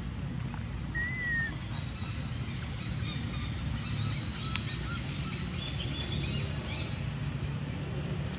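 Outdoor ambience with small birds chirping in the background: one short rising-and-falling whistle about a second in, then scattered quick high chirps through the middle, over a steady low rumble.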